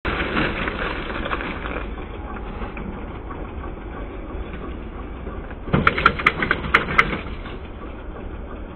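Motorcycle engine running, with a cluster of sharp pops and cracks from about six to seven seconds in.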